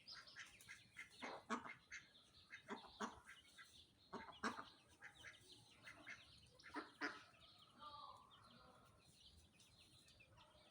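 Faint, scattered short calls of domestic fowl, clucking on and off.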